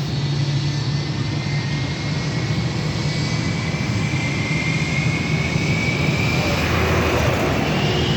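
Airbus A321neo turbofan jet engines running, with a steady low rumble and a whine that slowly rises in pitch.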